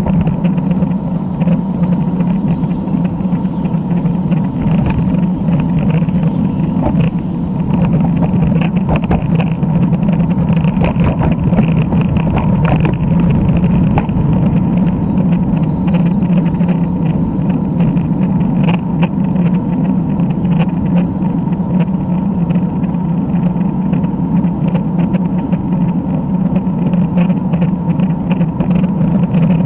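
Steady noise of a road bike being ridden, with a constant low hum throughout and no clear single event.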